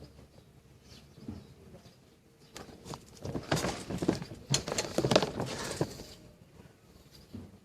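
Quick clicks and rattles of handling, bunched between about three and six seconds in, with quieter fiddling before and after.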